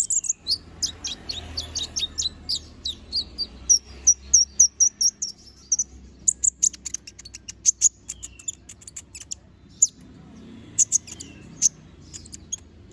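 Konin (kolibri ninja) singing a rapid string of sharp, high chirps and trills. There is a brief lull about ten seconds in before the notes resume.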